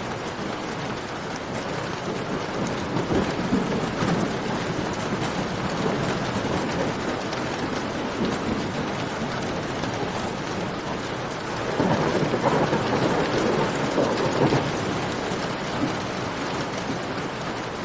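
Steady rain falling, with a campfire crackling in small clicks, and two louder rumbling swells, one about three seconds in and a longer one about twelve seconds in.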